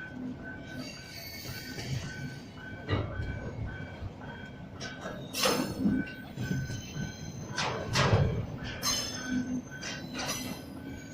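Railroad cars rolling past, with several loud clanks from the wheels and couplings and a short high tone repeating about twice a second throughout.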